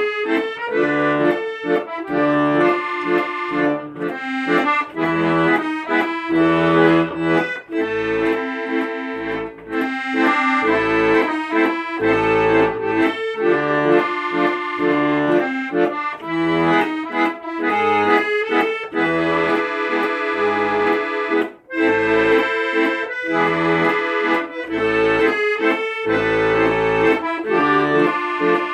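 Accordion playing an instrumental tune: sustained melody and chords over a regularly pulsing bass accompaniment, with no singing.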